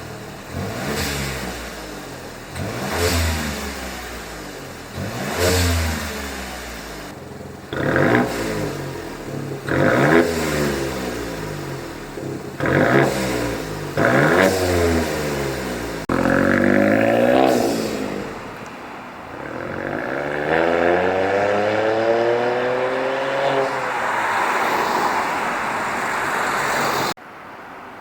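Hyundai Casper Turbo's turbocharged three-cylinder engine revving through an aftermarket Sematech valved exhaust: about seven short rev blips, then a longer rev that rises and falls in pitch and cuts off suddenly near the end.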